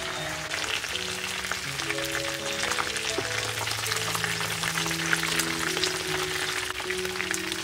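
Chicken pieces and lemongrass frying in bubbling oil in an aluminium pot, sizzling with many small crackles and pops. A soft melody of background music plays along.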